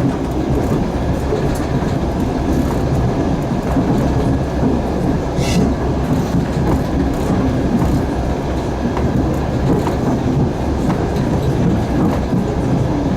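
Passenger train running, heard from a carriage window: a steady rumble of wheels on the rails with light clicks from the track. About five and a half seconds in there is one short, higher hiss.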